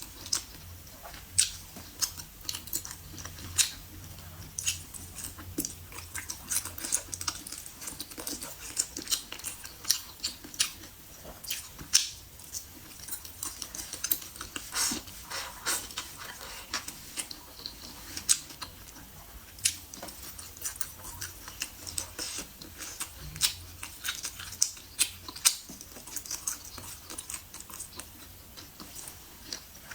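Close-miked chewing and mouth sounds of a person eating, with frequent irregular sharp smacks and crackles.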